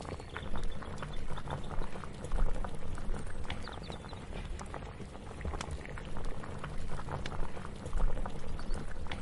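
Kitchen cooking ambience: a pot bubbling at the boil, with dense irregular pops and crackles over a steady low rumble.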